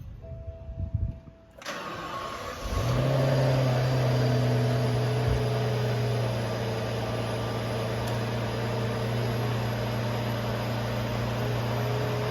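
Cold start of a 2010 Rolls-Royce Ghost's twin-turbo V12: a brief tone, then the starter cranks for about a second and the engine catches almost three seconds in. It flares to a fast idle and settles a little lower into a steady, smooth cold idle.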